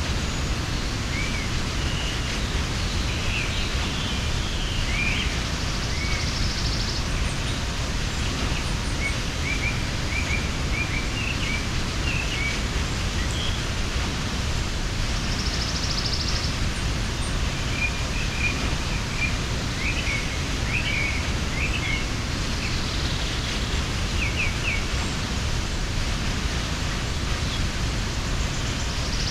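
Steady rush of a mountain waterfall, with small birds chirping over it in scattered short calls.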